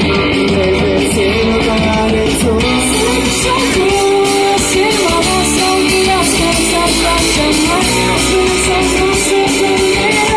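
Live rock band playing loudly: a melody line over bass, guitar and drums, with steady cymbal strokes.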